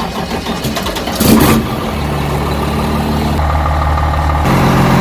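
Truck's diesel engine starting, with a loud burst just over a second in, then running steadily, its note shifting once near the end.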